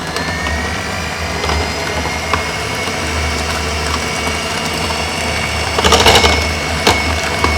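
Electric hand mixer running steadily, beating pancake batter in a bowl, with a cluster of clicks about six seconds in as the beaters knock the bowl.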